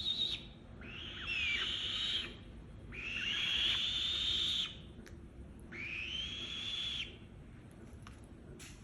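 Black-shouldered kite (black-winged kite) calling: three drawn-out, harsh screams, each rising at the start and then held level, with the end of a fourth right at the start. A few faint clicks come near the end.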